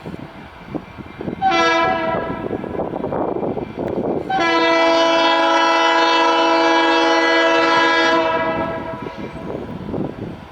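Freight locomotive air horn sounding a multi-note chord: a short blast about a second and a half in, then a long blast of about four seconds, the closing short-long of the grade-crossing signal. The rumble of the passing train runs underneath.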